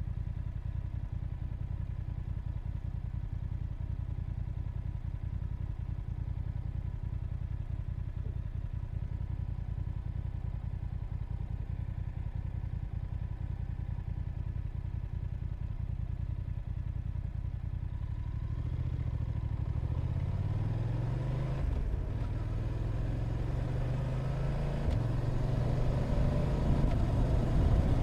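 Motorcycle engine running steadily at low revs, then about 18 seconds in it pulls away and accelerates through the gears, the pitch rising and dropping back with each shift as it gets louder.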